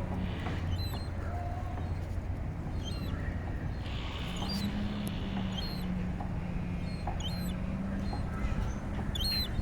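Short, high-pitched bird calls, about five spread a second or two apart, over a steady low rumble.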